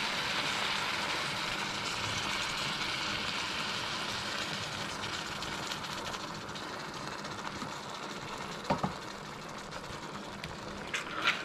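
Chicken and curry paste sizzling in a hot wok while coconut milk is poured in. The steady sizzle slowly dies down, and a couple of short knocks come near the end.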